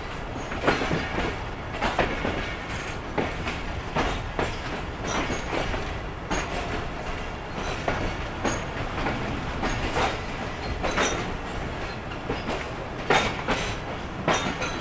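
Passenger train wheels running over the rails, heard from the moving coach: a steady rumble broken by irregular sharp clacks and knocks as the wheels cross rail joints, the train pulling out of the station.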